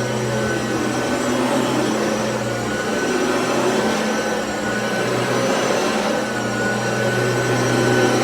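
Hoover ONEPWR cordless upright vacuum running on carpet: a steady motor hum and whine over a rush of air, its loudness rising and falling slightly as it moves.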